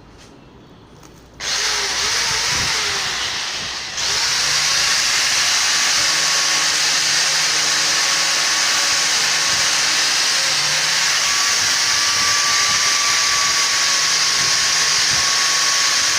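Angle grinder sanding rust off a bicycle wheel: it starts up about one and a half seconds in and grows louder again at about four seconds as the disc works the metal, then runs steadily with a faint high whine through the grinding noise.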